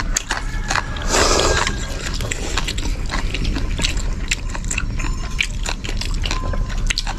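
A person eating close to the microphone: chewing and biting, with many small sharp clicks and a brief rushing noise about a second in.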